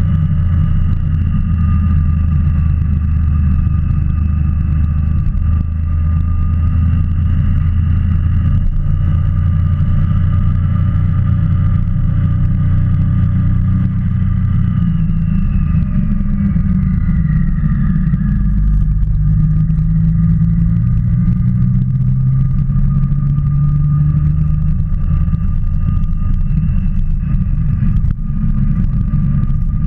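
Motorcycle engine running steadily at road speed on a ride; around the middle its note falls over a few seconds as the bike slows.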